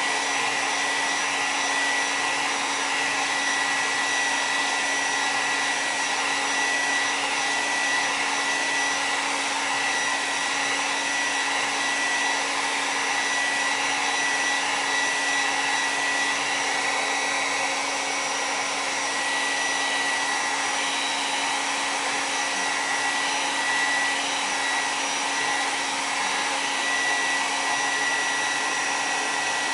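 Handheld hair dryer running steadily with an even rush of air and a constant motor whine, blowing on thin slices of roast beef to dry them into jerky.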